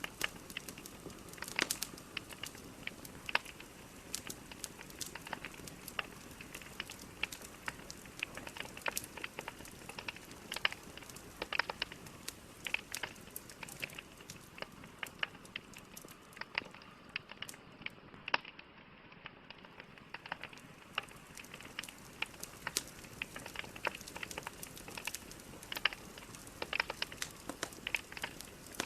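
Logs burning in a fireplace: irregular sharp crackles and pops over a soft steady hiss.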